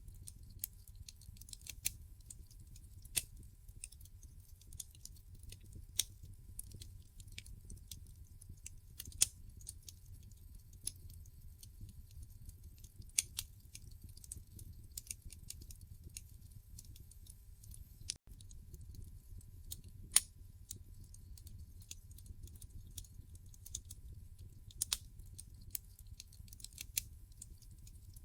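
Logs burning in a fireplace, crackling with irregular sharp pops and snaps, a few much louder than the rest, over a low steady rumble.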